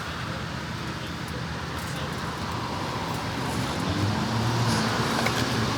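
Road traffic noise: a steady hiss of passing vehicles, with a motor vehicle's engine hum growing louder over the last couple of seconds.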